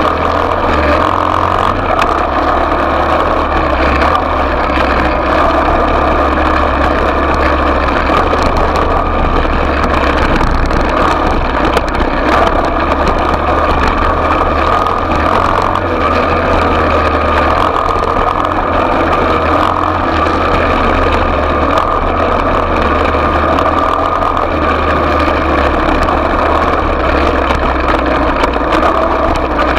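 Small off-road motorcycle engine running at a steady, even speed.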